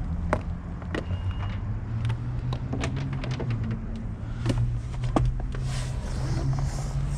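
Scattered sharp clicks and taps of oscilloscope test leads and back probes being handled and clipped onto wiring, over a steady low hum.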